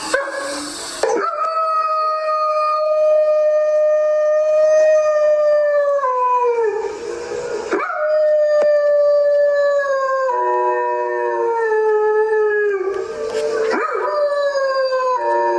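Canine howling: three long, drawn-out howls, each held steady and then falling in pitch, with short breathy gasps between them. At times two howling voices sound together.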